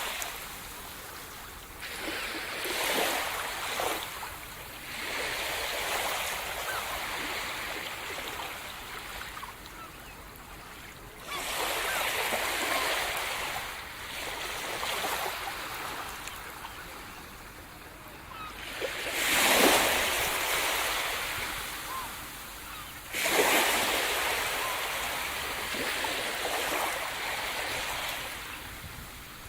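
Sea surf breaking on a shore: waves rush in and wash back in surges several seconds apart, the loudest about two-thirds of the way through.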